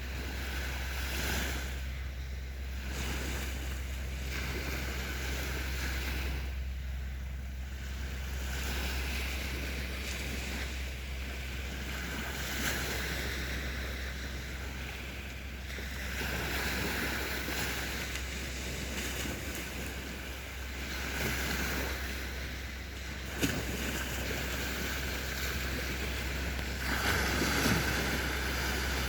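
Sea waves breaking and washing up the shore, swelling and ebbing every few seconds, over a steady low rumble of wind on the microphone. A single sharp click about two-thirds of the way in.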